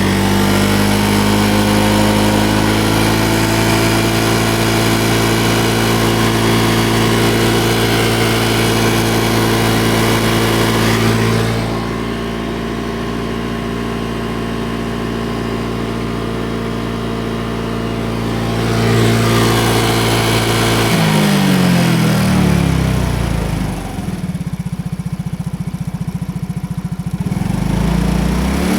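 Fourth-generation Yamaha Cygnus X scooter's single-cylinder engine running under throttle. It is held at raised revs, eases lower, rises again, then falls back to slower, uneven running before picking up near the end. The owner hears an abnormal engine noise that persisted through two piston and piston-pin replacements, and which the shop calls normal.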